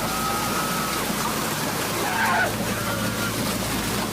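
Steady rushing roar of an EF5 tornado striking a house, recorded on a cell phone from inside: a dense, even noise with no let-up and a few faint wavering high tones over it.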